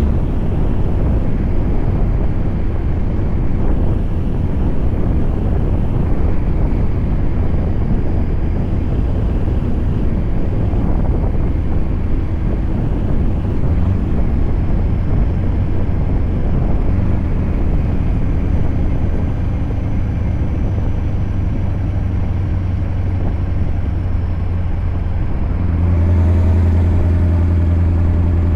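Scania V8 truck engine running steadily on the road, with road and wind noise over a deep low hum. Near the end the engine note gets louder and turns into a clearer, deeper drone.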